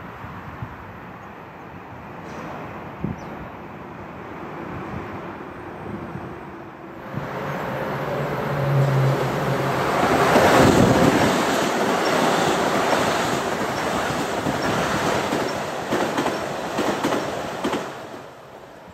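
Metro-North M8 electric multiple-unit train approaching and passing close by: a rising rush of wheels and running gear that peaks about halfway through and stays loud as the cars go by. Near the end comes a quick run of wheel clicks over rail joints before the sound falls away.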